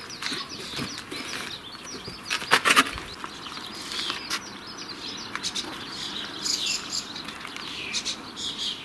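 Small birds chirping and twittering continuously, with scattered sharp clicks and knocks, the loudest a few knocks about two and a half seconds in.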